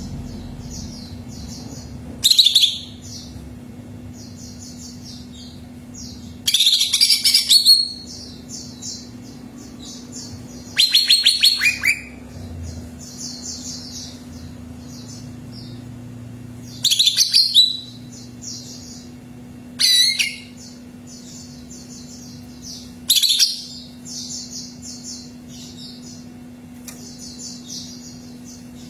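Greater green leafbird (cucak ijo) singing: loud, high bursts of song every few seconds, with softer repeated chirping between them. A steady low hum runs underneath.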